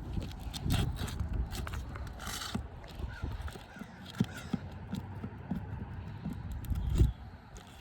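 Flat pry bar scraping and clicking against asphalt shingles and roofing nails as the nails are worked loose, in scattered irregular taps with a louder knock about seven seconds in.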